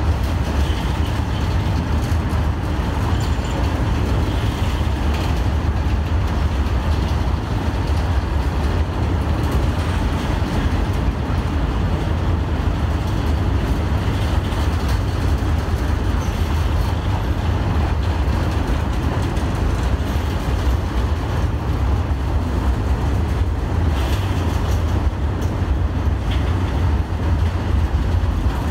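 Train running, a loud steady low rumble that holds without a clear approach or fade.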